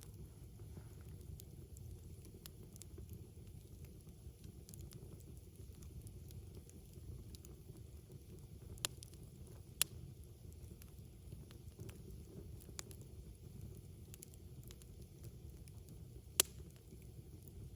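Wood campfire crackling faintly, with scattered small pops and three sharper snaps, about nine and ten seconds in and again near the end.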